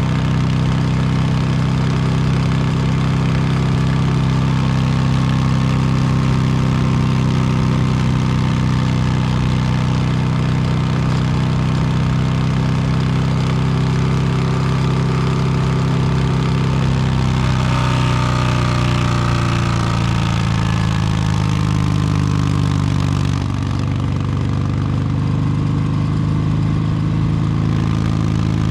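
2022 Harley-Davidson Low Rider S Milwaukee-Eight 117 V-twin running through an S&S Superstreet 2-into-1 exhaust while riding. It holds a steady note, then about two-thirds through the pitch falls, and it settles a little quieter near the end.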